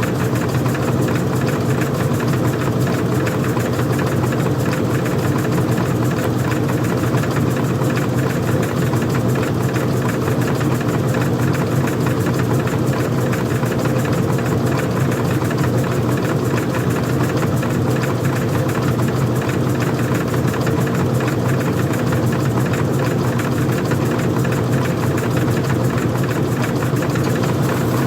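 Old-style front-loading washing machine running, seen from under the cover: its motor and drum make a steady, unchanging hum with a fine rapid rattle.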